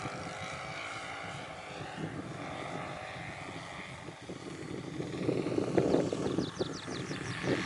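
Saito 82 four-stroke glow engine of a radio-control Yak 55M model plane in flight, its pitch rising and falling as it manoeuvres, getting louder about five seconds in as it comes closer.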